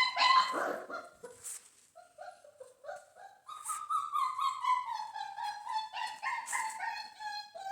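Central Asian shepherd dog whining: a string of short, high-pitched whimpers, about two or three a second, some sliding down in pitch.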